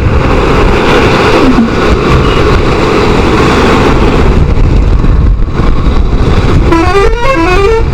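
Motorcycle engine and road noise while riding along a highway at speed, a loud steady rumble. Near the end a vehicle horn starts sounding a stepped tune of several notes.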